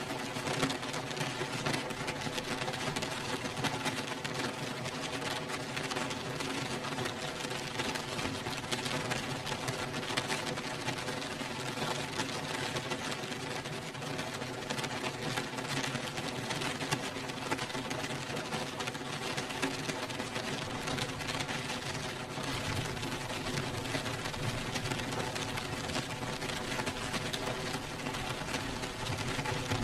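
Steady rain, an even, unbroken hiss, with a faint steady hum of several held tones underneath.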